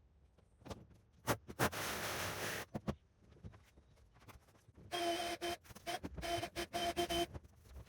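Knocks and clatter of demolition work, a hiss lasting about a second, then a power tool whirring in several short bursts of the trigger.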